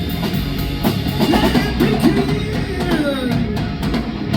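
Live rock band playing with drum kit, bass drum and electric guitar in a gap between sung lines, the guitar bending and sliding in pitch.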